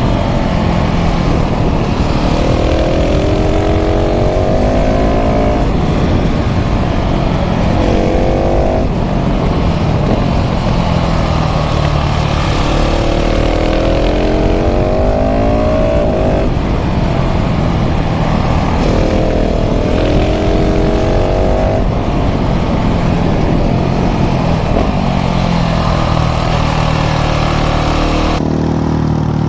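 KTM 690 SMC R's single-cylinder LC4 engine through a full LeoVince exhaust, pulling hard through the gears. Its pitch climbs and drops back again and again with each shift, over a steady rush of wind.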